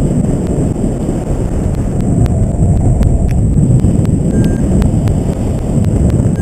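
Airflow buffeting the microphone in flight under a paraglider: a loud, steady wind rush, with scattered sharp ticks.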